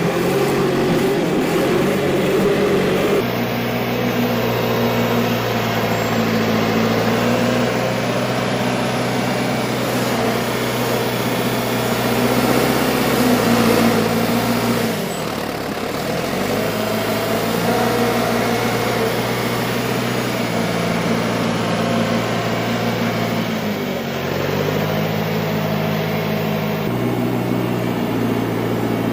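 John Deere 410 loader backhoe's diesel engine running steadily, its speed dipping briefly and picking back up about halfway through and again near the end.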